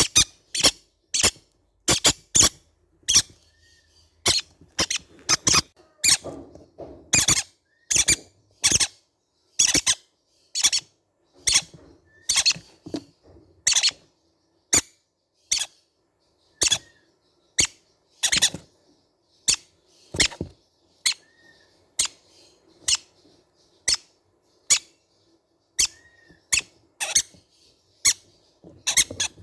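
Baby green-cheeked conures calling in a steady series of short, sharp, high-pitched squeaks, roughly one to two a second.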